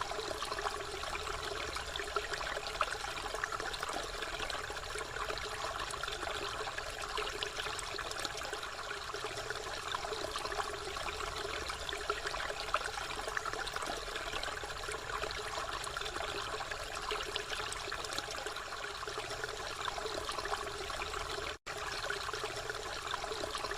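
Water pouring steadily from a spout and splashing, a continuous even rush with many small splashes. It cuts out for an instant near the end.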